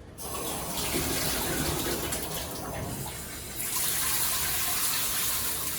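Shower running: a steady spray of water, changing in tone about three and a half seconds in.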